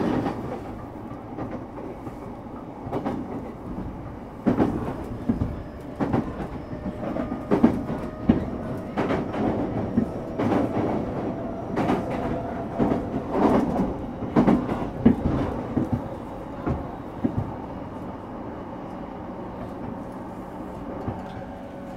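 Running sound of a JR East E233-series electric train, heard from inside the car: a steady rolling rumble with irregular sharp clacks of the wheels over rail joints, thickest in the middle, thinning out near the end.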